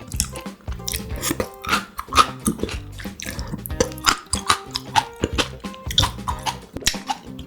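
Close-miked chewing and wet mouth sounds of eating grilled pork intestines, with many irregular sharp smacks and squishes.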